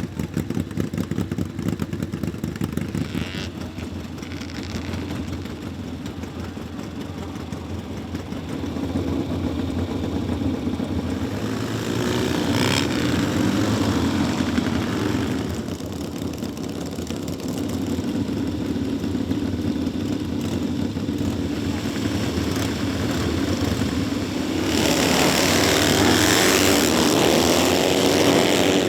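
Vintage motorcycle engines running and revving, growing much louder about three-quarters of the way through.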